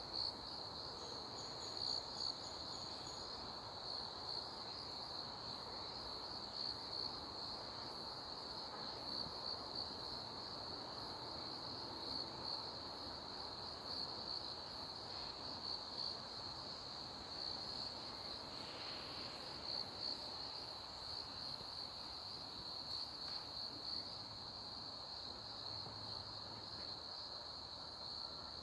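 Insects trilling steadily in one continuous high-pitched note, over a faint background hiss.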